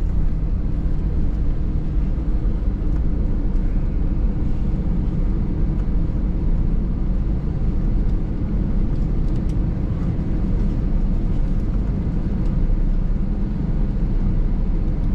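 Cabin noise of an Airbus A320 taxiing after landing: a steady low rumble of the idling engines and the wheels rolling over the taxiway, with a few faint clicks and rattles.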